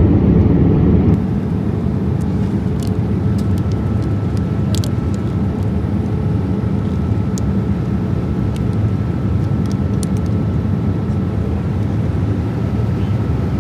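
Steady low rumble of engine and airflow noise in the cabin of a Boeing 787-8 airliner in flight. It drops a little about a second in; a faint steady high tone joins from about three seconds, with a few faint light clicks.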